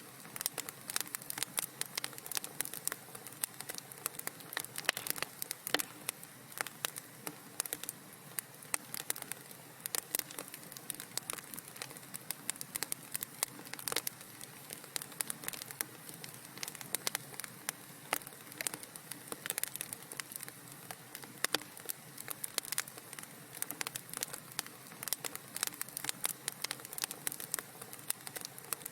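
Wood fire crackling in a fireplace: many irregular sharp pops and snaps over a soft steady hiss.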